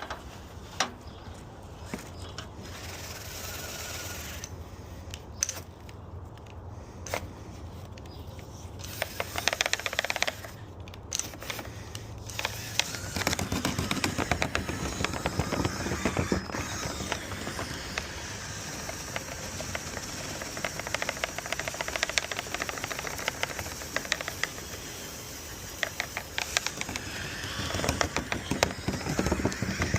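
Wire brush scraping and rattling inside a dryer vent duct, loosening caked-on bird-nest debris. It starts with scattered clicks and turns into busy, continuous scraping about halfway in.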